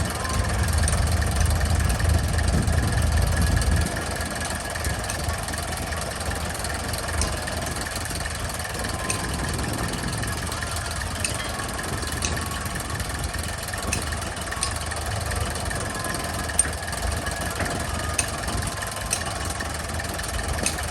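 An engine running steadily at idle, with a heavy low rumble for about the first four seconds that then drops away to a quieter, steady run.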